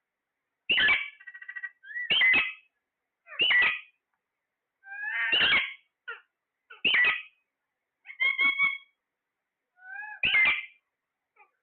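Parrot calling: a string of about eight short, harsh squawks roughly a second apart, with a couple of quicker rattling notes among them.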